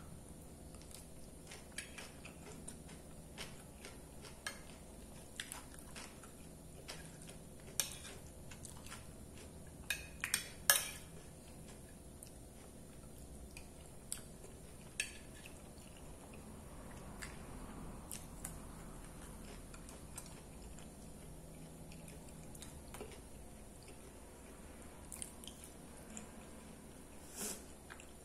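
Close-miked chewing of a mouthful of rice and beans, with scattered sharp clicks of a metal spoon against a plate, the loudest around ten to eleven seconds in.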